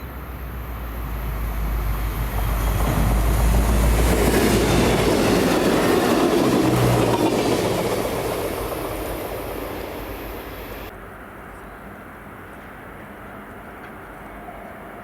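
Norfolk Southern SD40E diesel locomotive hauling the FRA track-inspection train past at track speed. Its deep engine rumble and the clatter of wheels on the rails build up, are loudest about three to eight seconds in, then fade as the train moves away.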